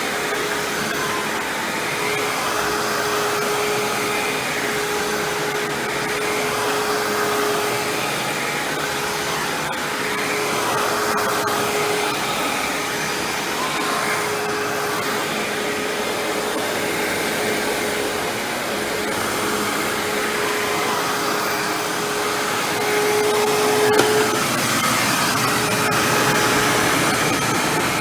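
Hoover WindTunnel self-propelled bagless upright vacuum running steadily, a steady motor whine over the rush of air, with a single click near the end.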